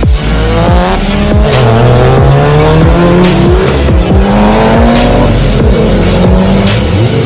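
Sports car engine revving, its pitch climbing in several rising sweeps, over electronic music with a steady kick-drum beat about twice a second.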